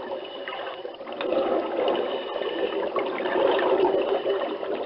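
Water sloshing and trickling, a steady noise with no pauses.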